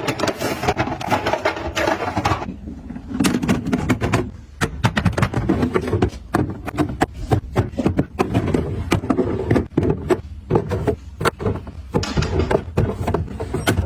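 Small objects being handled and set down by hand: a busy run of clicks, taps and knocks with rustling between them.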